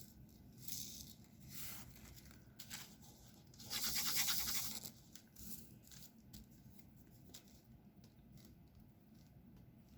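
Small handling sounds of diamond painting: a dense, scratchy rattling burst lasting about a second, a few seconds in, with faint scattered clicks of resin drills and the applicator pen around it.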